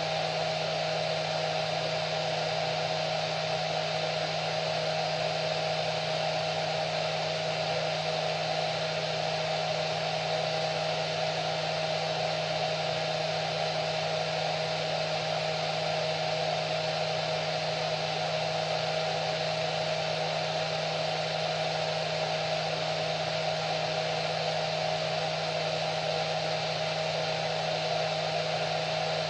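Hair dryer running steadily: an even rush of blown air with a low hum and a higher whine, both held at one pitch.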